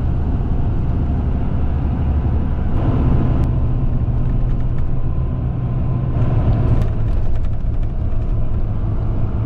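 Tour coach's engine and tyre noise heard from inside the bus: a steady low drone.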